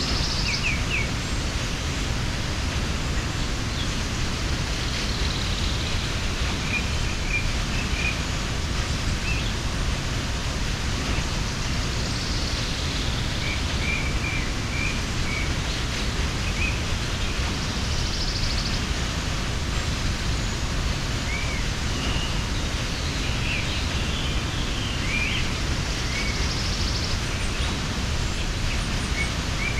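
Steady rush of a mountain waterfall, with small birds chirping briefly over it every few seconds.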